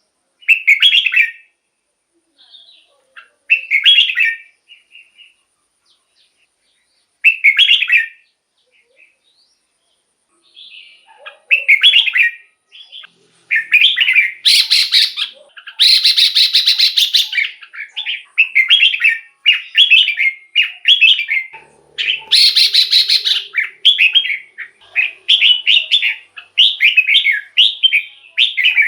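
Red-whiskered bulbul singing: three short chirpy phrases a few seconds apart, then from about eleven seconds in a near-continuous run of quick phrases, broken twice by loud rasping chatter.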